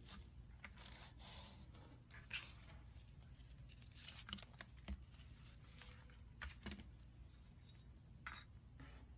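Faint, scattered scratching and rustling with a few sharp clicks.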